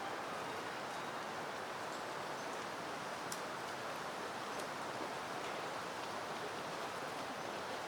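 Steady wind rustling through peony plants, an even hiss with a couple of faint ticks near the middle.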